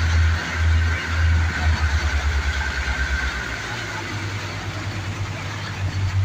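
An engine running, its low beat quickening about two seconds in and then holding steady.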